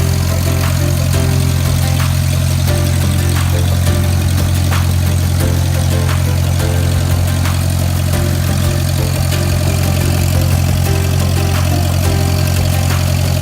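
Cessna 172's single piston engine and propeller running at a steady speed: an even, low drone that holds without change.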